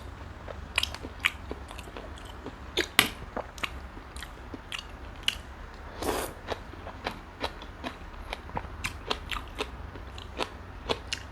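Close-miked eating: a person biting and chewing, making many short, irregular wet clicks and crunches. The strongest crunch comes about six seconds in, over a steady low hum.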